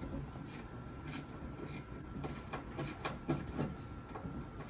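Hand screwdriver with a ratcheting action driving a screw into a wooden shelf board under downward pressure, clicking about twice a second as it is worked back and forth.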